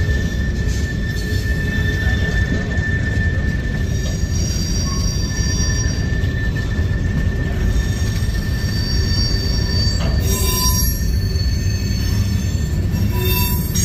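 Freight cars (boxcars and covered hoppers) rolling past on the rails: a steady, loud low rumble of wheels on track with a thin, high-pitched wheel squeal held over it.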